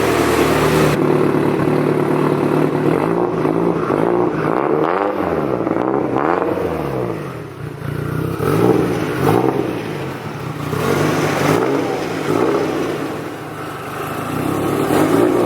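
Mitsubishi Lancer Evolution IX's turbocharged four-cylinder engine running and being revved, its pitch rising and falling again and again after a steady first second.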